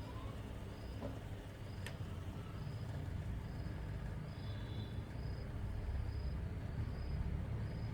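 A steady low rumble, with a faint high chirp repeating a little faster than once a second.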